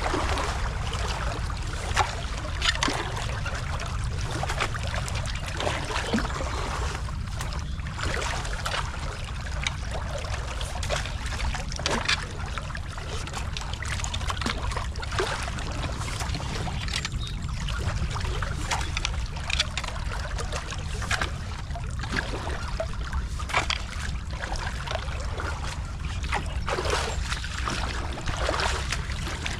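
Creek water running and splashing through a beaver dam that is being broken open, with many irregular splashes and knocks over a steady low rush.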